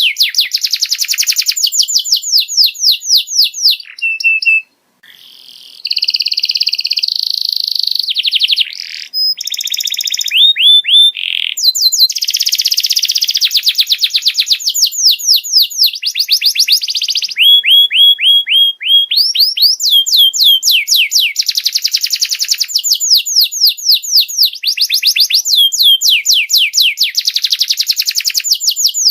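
Domestic canary song played as a tutor song for young canaries: long, rapid trills of repeated high, downward-sweeping notes that change speed and pitch from phrase to phrase, with a brief break about five seconds in.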